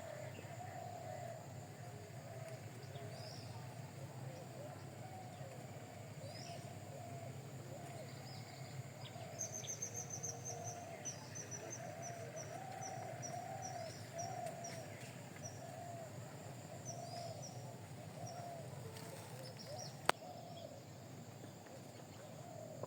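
Birds calling and chirping over a steady low hum. About ten seconds in, a run of high, quick chirps slows down over several seconds, and a single sharp click comes near the end.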